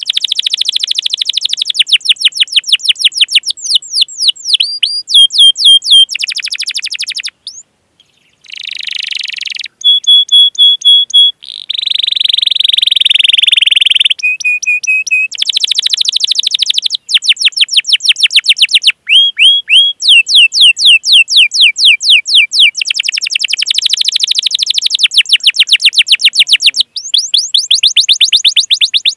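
Domestic canary in full song: long rapid trills of repeated down-sweeping chirps, several to the second, alternating with short steady whistled notes and 'cuit cuit' calls, with a brief pause about eight seconds in.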